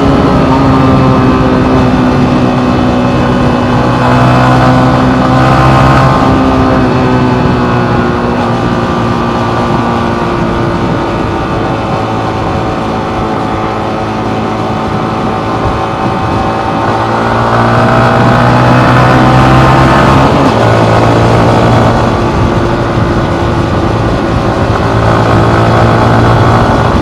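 Yamaha MT15's 155 cc single-cylinder engine pulling under way, its note rising and falling with the throttle. The pitch steps down suddenly about six seconds in and again about twenty seconds in, after a climb, as the gears change.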